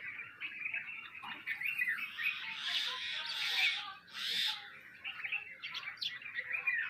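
A flock of sparrows chirping together in dense, overlapping short chirps, with two louder, noisier bursts around the middle.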